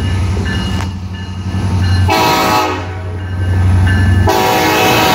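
EMD SD70ACe diesel locomotives passing close, their engines rumbling deep, while the air horn blows loudly. The horn swells about two seconds in and again, stronger, about four seconds in as the engine rumble drops away.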